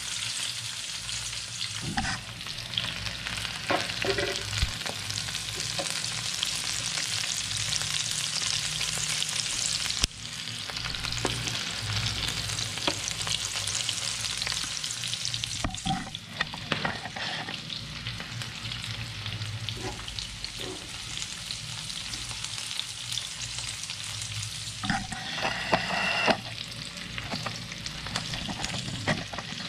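Sliced onion, carrot and garlic sizzling steadily in hot oil in a frying pan, with a metal spoon now and then scraping and clattering against the pan as the vegetables are stirred; the clatter is busiest near the end.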